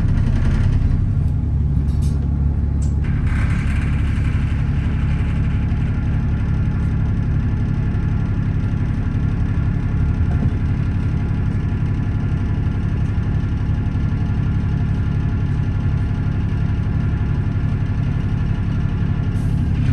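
Alexander Dennis Enviro400 double-decker bus heard from inside the cabin: a steady, deep engine rumble with a high, steady whine above it, the hoover-like noise these buses are known for. A few faint clicks about two to three seconds in.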